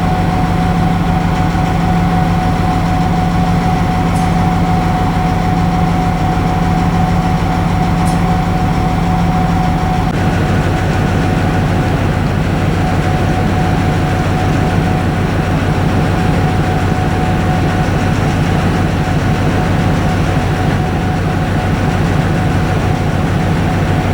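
A railway locomotive running steadily, a constant low hum with a steady higher whine; its sound shifts slightly about ten seconds in.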